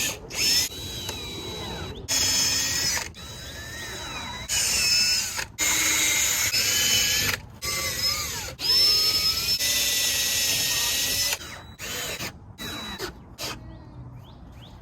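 Power drill running in a series of bursts lasting one to three seconds each, its motor pitch rising and falling with the trigger, followed by a few short blips near the end, as it works on holes and screws in wood.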